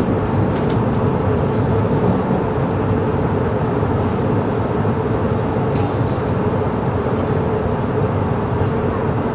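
Steady running noise inside a CRH6A electric multiple unit coach under way: an even rumble of wheels on rail with a steady hum and a few faint ticks.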